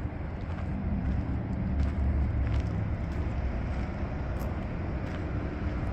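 A motor vehicle's engine running nearby in street traffic, a steady low rumble.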